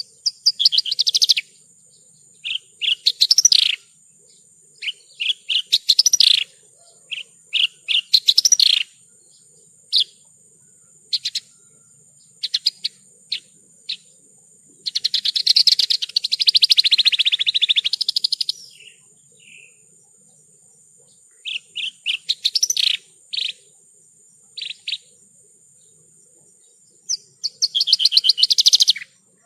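Javan bush lark (branjangan) singing: bursts of fast, varied twittering and chirping phrases with short pauses between them, and a longer buzzy trill about halfway through.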